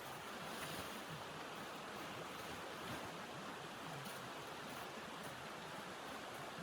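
Steady rushing wind of a blizzard, without clear gusts or breaks.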